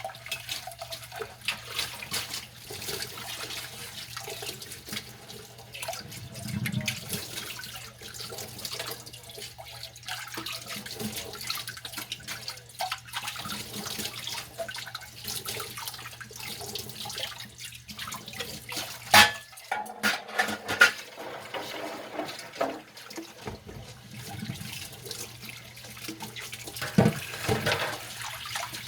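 Dishes being washed by hand at a sink: running tap water with the scrub and clatter of dishes, broken by a few sharp knocks of dishware about two-thirds of the way through and again near the end.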